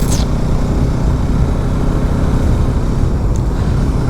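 Motorcycle on the move, heard from the rider's seat: a steady low rumble of engine, road and wind noise.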